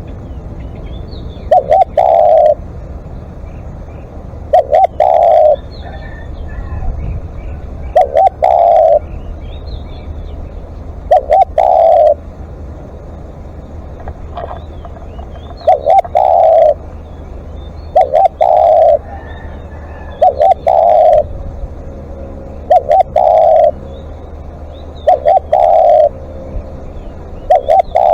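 Spotted dove cooing: the same phrase repeats about every two to three seconds, each a couple of short coos run into a longer, fuller one. Faint high chirps of small birds come in between the phrases.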